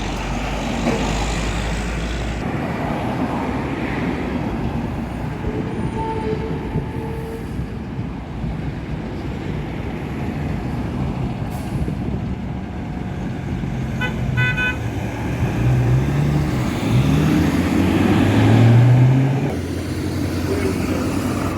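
Road traffic with heavy trucks passing. A horn gives a quick run of short toots about 14 seconds in. Near the end a truck engine grows louder and rises in pitch as it goes by.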